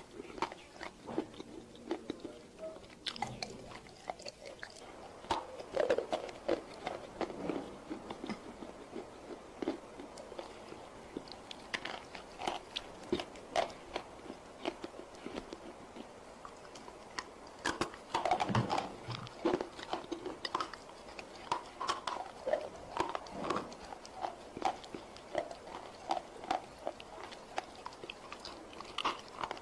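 Close-miked biting and chewing of dry roasted Nakumatt clay: irregular crisp crunches and crackles, with bursts of denser crunching in the second half.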